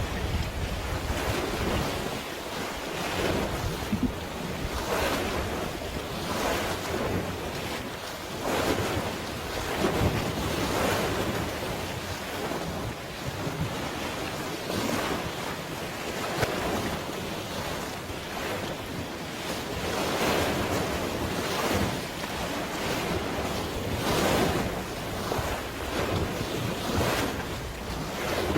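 Water waves washing and splashing in irregular surges, with wind buffeting the microphone.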